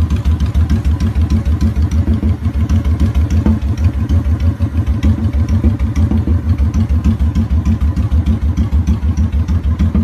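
Honda Shadow 750 Black Widow's V-twin engine idling through a Cobra Street Rod exhaust, with steady, even exhaust pulses.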